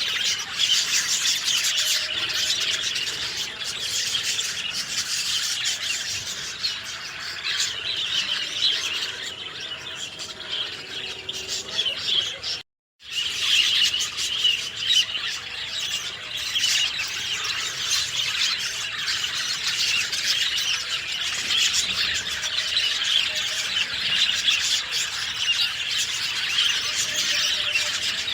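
A dense chorus of many small songbirds chirping and twittering without pause. The whole soundscape cuts out for a split second about halfway through.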